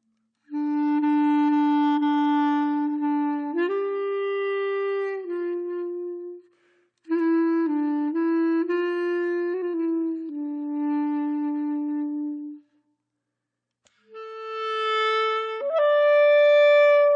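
Background music: a slow solo woodwind melody of long held notes in three phrases, with short silences between them.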